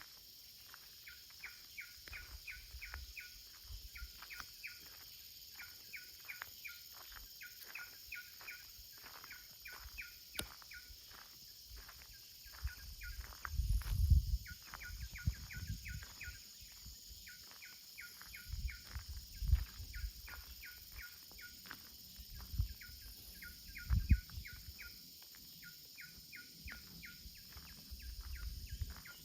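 Outdoor nature ambience: a long run of short, high chirps repeating about four times a second, with brief pauses, over a steady high hiss. Wind gusts on the microphone come in a few times as low rumbles, the strongest about halfway through and again near the end.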